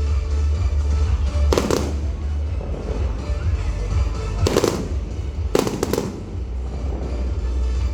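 Fireworks shells bursting in sharp bangs, one about a second and a half in, one past the middle and a quick double bang around six seconds, over loud music with a heavy, steady bass.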